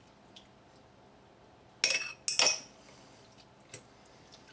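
A utensil clinks twice against a glass jar while sauerkraut is packed in, two sharp ringing clinks about half a second apart, about two seconds in, with a faint tick later.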